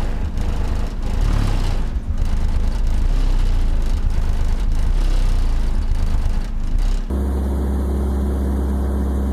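Car audio subwoofers playing deep sub-bass music very loud, with a harsh noisy haze over it. About seven seconds in, the sound changes suddenly to a steady low bass tone.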